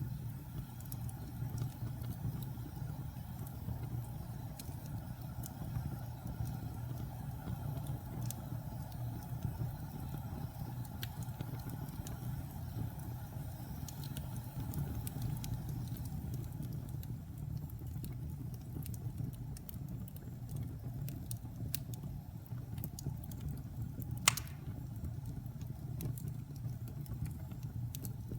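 Wood fire burning in a fireplace: a steady low rumble with scattered small crackles, and one louder pop late on.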